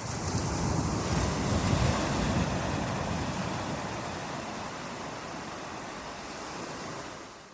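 Ocean surf: a wave breaking and washing up, a rush of water that starts suddenly, is loudest in the first couple of seconds, then slowly dies away and fades out near the end.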